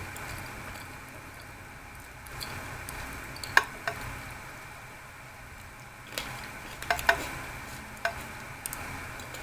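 Close-miked eating of a blueberry muffin: quiet chewing and handling, with a handful of sharp clicks over a faint steady hiss, two of them close together about seven seconds in.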